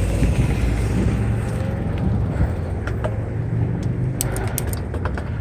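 A truck carrying a camper passes with a steady low engine and tyre rumble, loudest about a second in and easing off after. A few light clicks come near the end.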